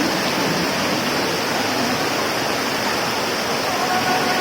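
Heavy rainwater rushing on a street: a steady, even rush of water that does not let up.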